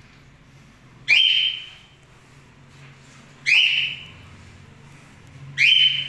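A bird's high-pitched call, three times, each about two and a half seconds apart: a quick upward slide into a held shrill note that fades within about half a second.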